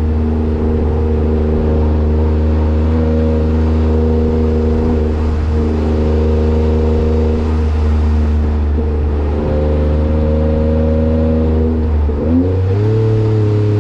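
Kei truck's 660 cc three-cylinder engine running through a new aftermarket muffler, with a steady exhaust note. About twelve seconds in the engine note rises sharply, then slowly falls.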